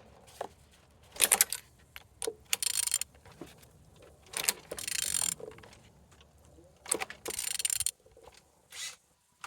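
Used car engine being turned over by hand with a wrench: scattered clicks and short rattling bursts a few seconds apart. It turns freely.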